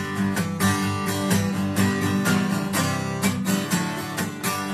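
Acoustic guitar strummed in a steady rhythm of chords, with no voice over it: the instrumental intro before the first sung verse.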